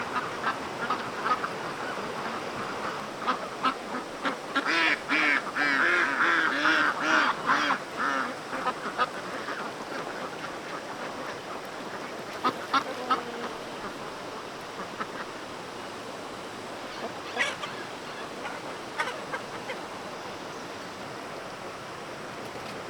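Domestic waterfowl calling: a dense run of quick, repeated calls from about four to nine seconds in, then scattered single calls over a steady farmyard background.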